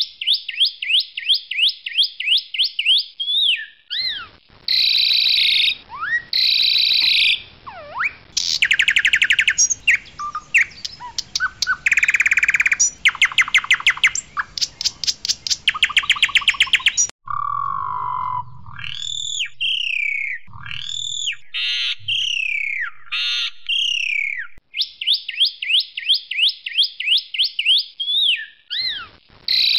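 Asian pied starling (jalak suren putih) singing loudly. Its song runs from fast series of falling notes to harsh, rapid rattling phrases in the middle and then slurred down-sweeping whistles.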